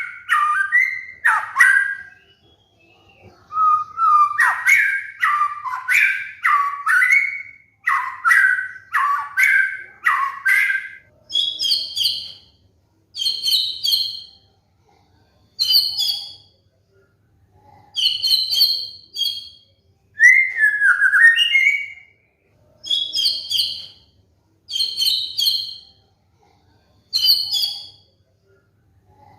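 White-rumped shama (murai batu) song. It opens with a run of quick whistled phrases that fall in pitch, then switches to short, higher two-note phrases repeated every second or two with brief pauses between.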